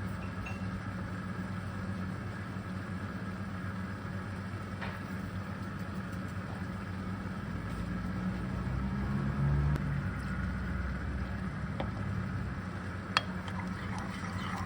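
A steady low machine hum, with a sharp click near the end.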